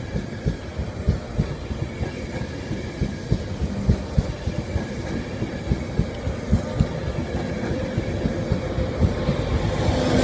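Passenger train's coaches rolling past close by, wheels clicking over the rail joints several times a second over a steady rumble.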